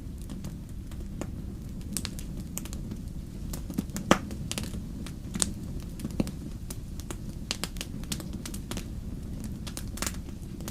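Wood fire crackling in a fireplace: irregular pops and snaps over a steady low rumble, with one louder pop about four seconds in.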